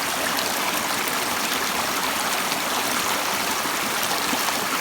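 Stream water running steadily over rocks, an even rushing noise.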